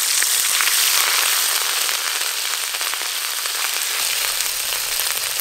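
Ginger paste frying in hot mustard oil in an aluminium karai, a steady hissing sizzle that eases off slightly toward the end.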